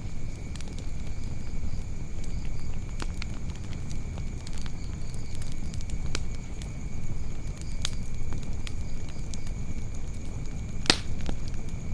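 Wood fire burning in a fireplace: a low, steady rumble of flames with scattered sharp crackles and pops, the loudest pop near the end.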